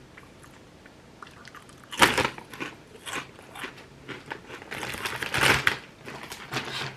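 Potato chips being bitten and chewed: a sharp crunch about two seconds in, then an uneven run of crunches, loudest around five and a half seconds.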